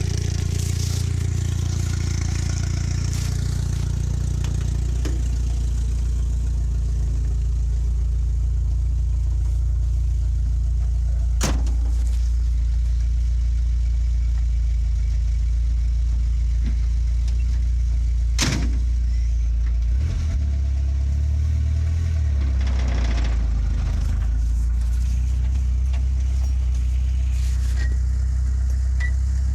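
1953 Willys truck engine idling with a smooth, solid idle. Two sharp clicks cut in, one about a third of the way in and one past the middle.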